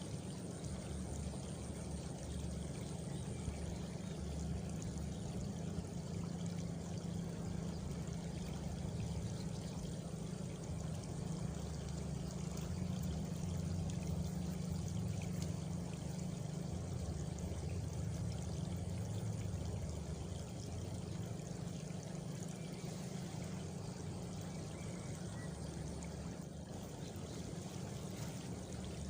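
Steady rural night ambience: a continuous rushing noise, heaviest in the low end, with faint high chirring of crickets.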